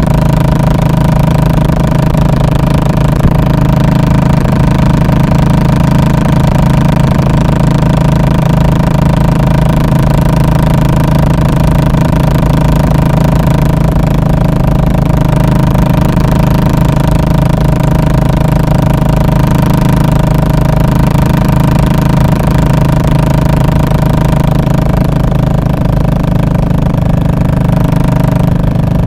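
Royal Enfield Classic 500's air-cooled single-cylinder engine running steadily through its muffler, a loud even thump at constant engine speed.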